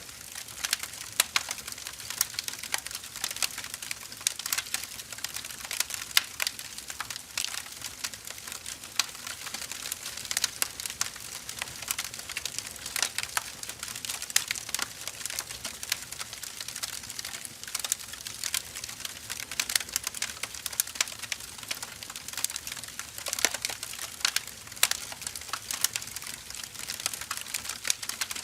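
Burning firewood crackling: a steady run of irregular sharp pops and snaps over a soft hiss.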